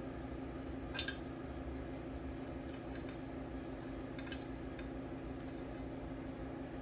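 Light metallic clicks and clinks, two close together about a second in and a softer few around four seconds, over a steady low hum.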